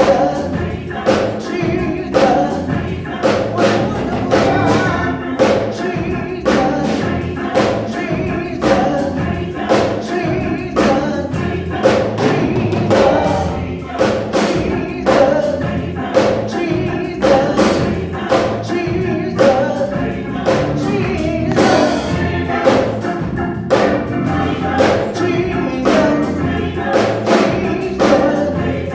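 Gospel choir singing over a band accompaniment with a steady beat of about two strokes a second.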